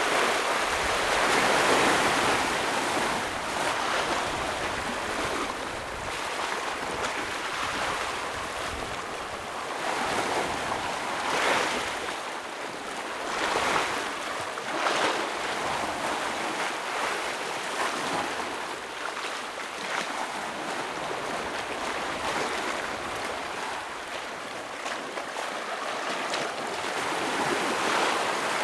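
Ocean waves breaking against rocks: a steady rush of surf that swells with each break, with louder breaks about a second or two in, several in the middle and one near the end.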